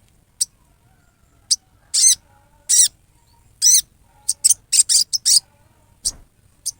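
Sogon giving harsh, rasping 'riwikan' calls: a dozen or so short, sharp, high-pitched bursts at irregular intervals, some in quick pairs. These rough calls are used to provoke a kept sogon into answering.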